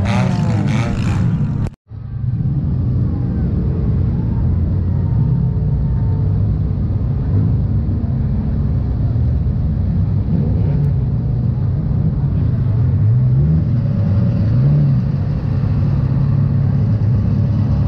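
Race-track noise that cuts off abruptly about two seconds in, followed by a junk-race Dodge Neon's engine running with a steady low rumble and a few brief revs later on.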